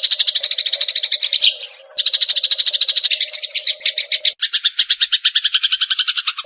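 Sparrows giving their rapid fighting chatter, about ten harsh chirps a second. There is a brief break just under two seconds in, and about four seconds in the chatter shifts to a lower-pitched run.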